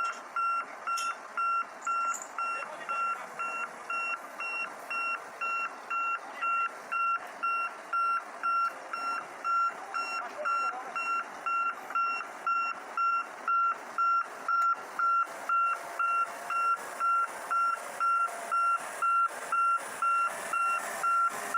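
Vehicle reversing alarm beeping steadily, one high tone repeating about twice a second, over a steady background noise.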